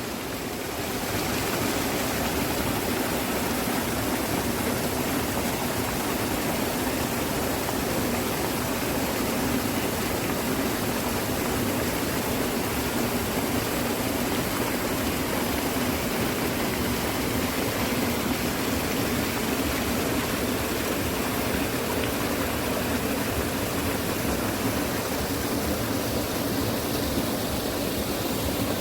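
Rushing water from a stream or small waterfall: a steady, even rush that fades in over the first second and then holds level.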